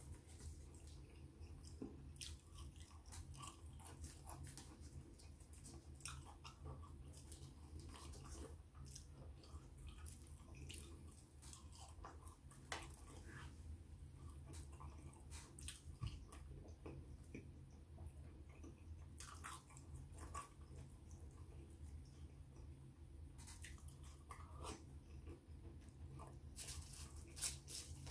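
Quiet chewing and mouth sounds of a person eating thick-cut chips, with many short scattered clicks and smacks over a low steady hum.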